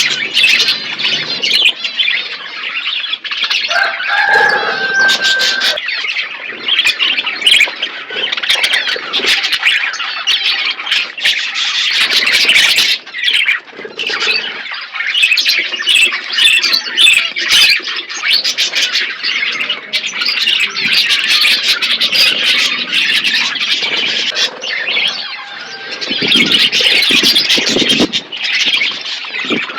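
Parrots chattering and chirping, many calls overlapping without a break, with a brief clear whistle about four seconds in.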